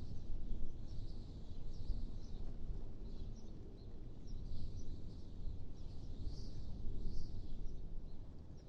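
Steady low wind noise, with small birds chirping in short high calls on and off.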